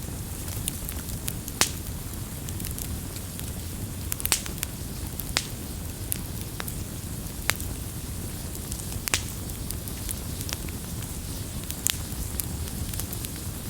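Wood campfire crackling: a steady low rush of burning, with sharp pops and snaps every second or so.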